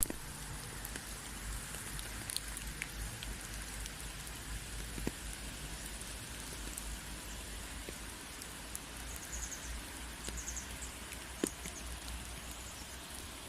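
Steady rain falling, with scattered individual drops ticking sharply on a surface and a low rumble underneath.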